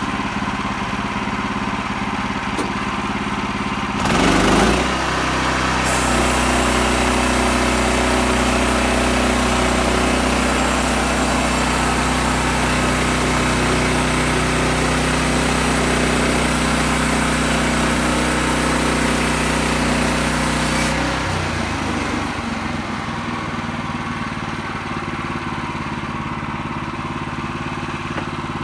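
Sawmill engine running steadily. About four seconds in it picks up, and for about fifteen seconds the blade cuts through cedar, a steady high hiss over the engine. Then the blade comes out of the wood and the engine drops back.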